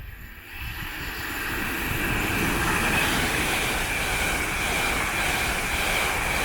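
LNER Class 801 high-speed electric train passing through the station: a steady rush of wheels on rail and air that builds over the first second or two, with a steady high ring running through it.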